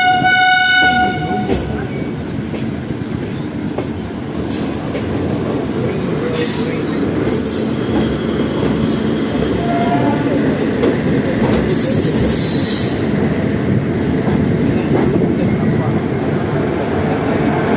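MEMU electric multiple-unit train running on the rails: its horn sounds a single steady note that stops about a second in, then a steady rumble with several short, high wheel squeals, the longest about two-thirds of the way through.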